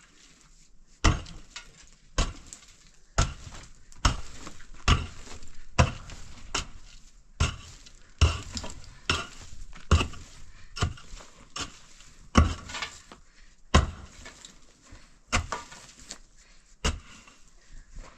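A series of sharp strikes or knocks, about one a second and unevenly spaced, with lighter clatter between them.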